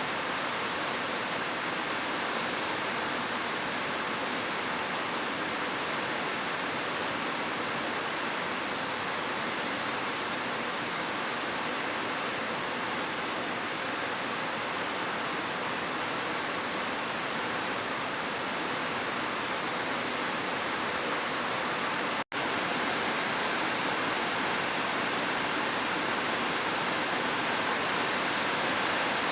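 Heavy rain falling steadily, a dense even hiss with no single drops standing out. The sound drops out for an instant about three quarters of the way through, then carries on unchanged.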